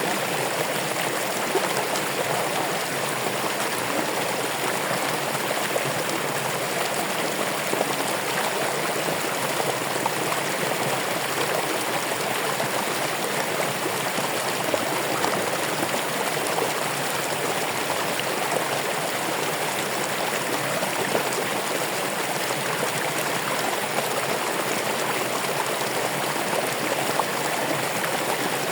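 Water running steadily over rocks in a stream, with an even rushing and gurgling.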